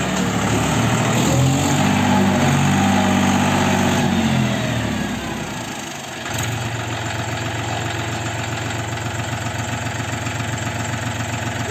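John Deere 5045D tractor's diesel engine running at raised revs, then easing off about five seconds in and running steadily at lower revs.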